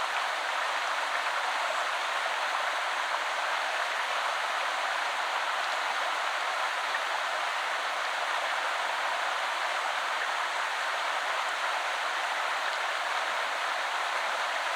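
Shallow woodland river flowing, a steady even rush of water.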